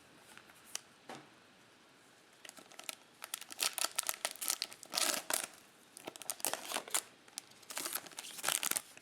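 Trading card pack wrapper being torn open and crinkled: a few faint clicks, then a dense run of irregular crackling from about two and a half seconds in.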